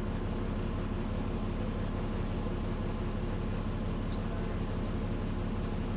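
Bus diesel engine running steadily with a fast, even low pulsing from a leaking exhaust.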